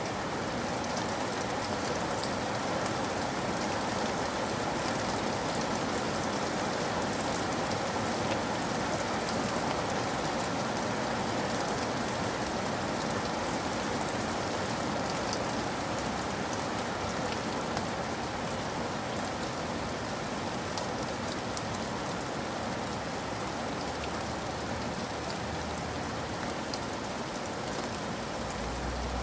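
Steady heavy rain falling on surfaces, with a dense patter of individual drops over a constant hiss.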